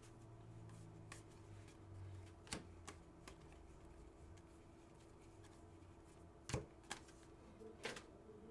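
Trading cards being handled and flipped through, giving a few soft clicks and slides over a faint steady hum.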